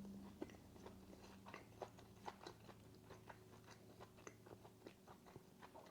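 A person chewing food: faint, irregular small mouth clicks and smacks, several a second.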